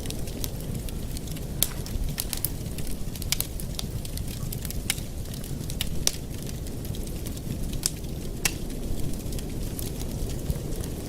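Wood fire burning in a fireplace, crackling, with irregular sharp pops and snaps over a steady low rumble.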